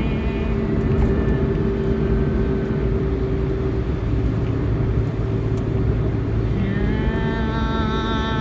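Sustained droning tones: several steady pitches held together over a low hum, with a new, higher tone and its overtones joining about six and a half seconds in.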